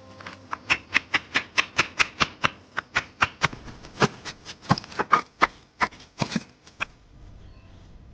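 A quick run of sharp knocks, about four a second, stopping about a second before the end.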